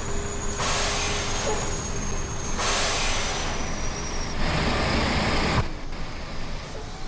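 Truck on the move, its engine running with a steady whine. Long bursts of hissing rush come in about half a second in and again around three seconds in.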